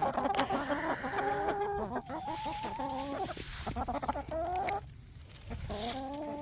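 Chickens clucking: a run of drawn-out, pitched calls one after another, with a short lull about five seconds in before another call near the end.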